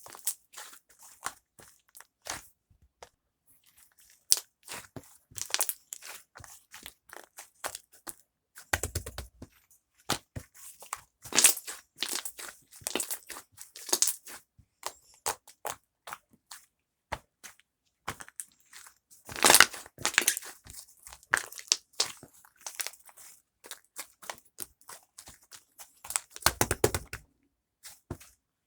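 Irregular crinkling and crunching, many short crackles with a few louder clusters, two of them with dull thumps.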